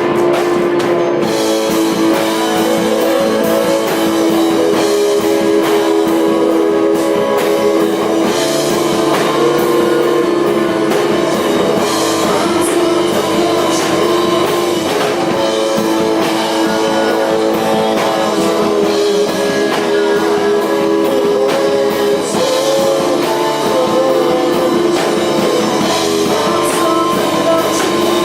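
A rock band playing live, with guitars and a drum kit.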